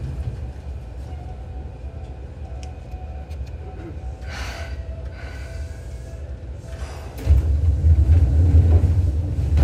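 Seibu New 2000 series electric train running, heard from inside the car over its underfloor equipment: a steady low rumble with a faint steady whine. Two short hisses come midway, and about seven seconds in the rumble turns much louder and stays up.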